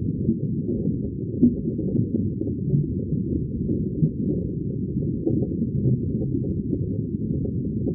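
Muffled underwater ambience: a steady, low, dense bubbling rumble with no high tones, with a few slightly louder bubble pops about a second and a half and four seconds in.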